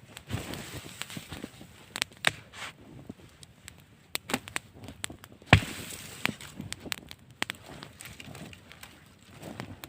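A run of irregular sharp snaps and cracks, the loudest about five and a half seconds in.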